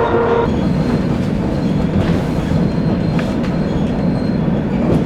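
ER2K electric multiple unit running along the track, heard from inside the passenger car: a steady low rumble of wheels on rails with a few faint clicks. A steady whine stops about half a second in.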